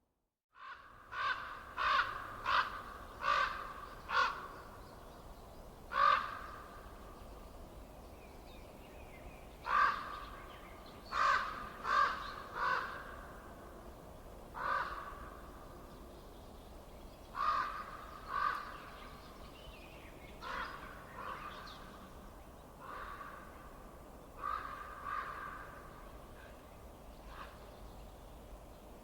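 A bird calling repeatedly: short harsh calls in irregular runs of one to five, about half a second apart, over a steady background hiss. The calls begin after a brief silence at the start.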